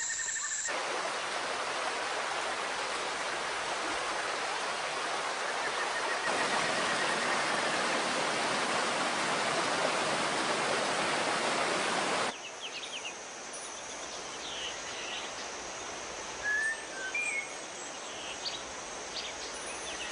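A steady rush of water cuts off suddenly about twelve seconds in. Rainforest ambience follows: a steady high insect drone with short, scattered bird chirps.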